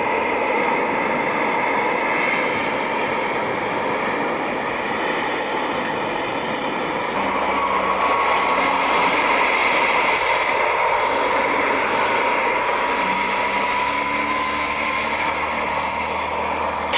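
Military jet engines running, a steady rush of noise with a high whine that rises slowly in pitch in the second half.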